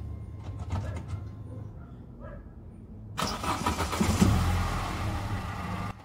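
Mercedes-Benz A190's engine running at low speed with a steady low rumble and a few faint clicks while the car is maneuvered to park. About three seconds in, a much louder rushing sound comes in suddenly and cuts off abruptly just before the end.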